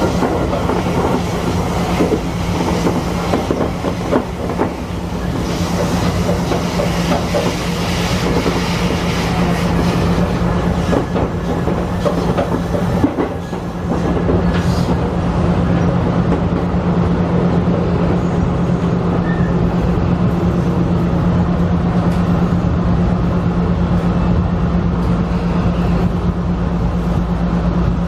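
Electric commuter train running on the track, heard from inside the front cab: wheels clicking over rail joints over a steady low hum. The clicking is busiest in the first half and settles to steadier running noise after about halfway.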